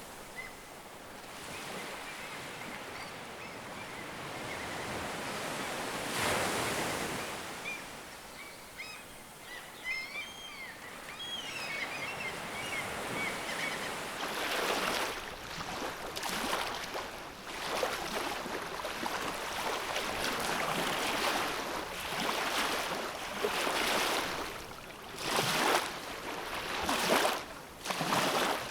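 Ocean surf: waves washing and breaking in repeated surges, heavier in the second half. A few short, high bird chirps come through about ten seconds in.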